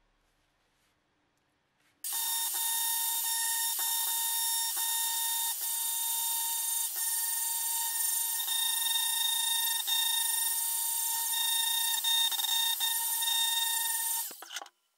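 Small high-speed power tool running at a steady speed with a high whine, switched on about two seconds in and stopping just before the end.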